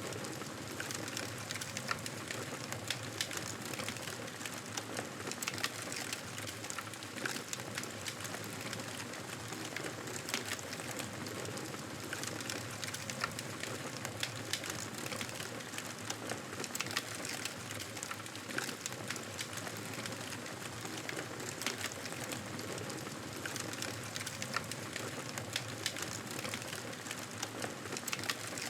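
Wood fire in a fireplace crackling steadily: a constant soft hiss with frequent sharp pops and snaps scattered through it.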